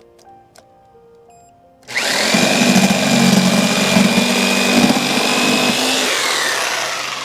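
Electric power drill run for about four seconds: the motor whine jumps up about two seconds in, holds steady under load, then falls away as the trigger is released.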